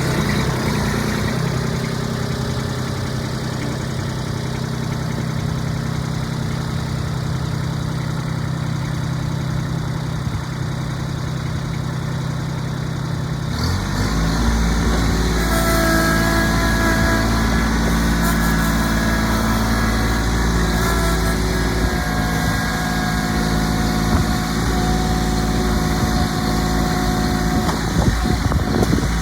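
Kubota B26 tractor's three-cylinder diesel engine idling steadily, then running louder and busier from about halfway through. A thin whine comes and goes over it during the second half.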